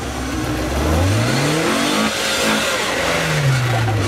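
A Volkswagen Golf Mk2's engine revving hard under load as the car claws its way out of a muddy hole. The revs climb from about half a second in, stay high, then drop back near the end.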